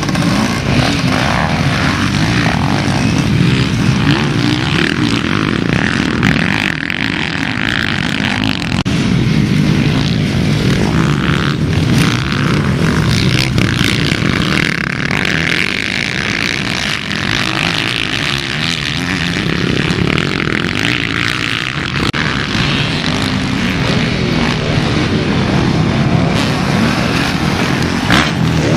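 Motocross motorcycles racing, their engines revving continuously at high load.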